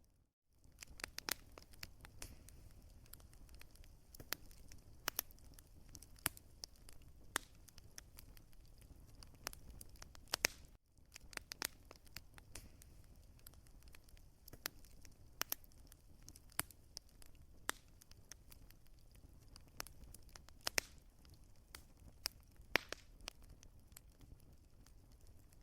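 Wood fire crackling, with irregular sharp pops and snaps over a low, steady rumble. The sound cuts out for an instant just after the start and again about eleven seconds in.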